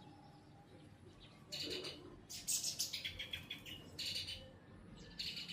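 Small birds chirping in four quick bursts of rapid, chattering calls.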